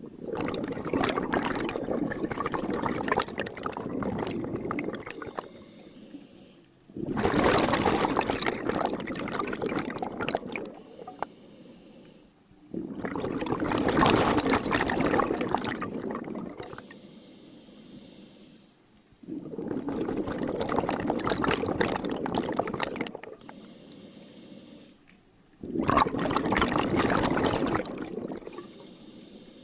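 Scuba regulator exhaust: a diver breathing out through the regulator, each breath a rush of bubbles lasting a few seconds, five times in a steady rhythm about every six to seven seconds, with quieter inhalations between.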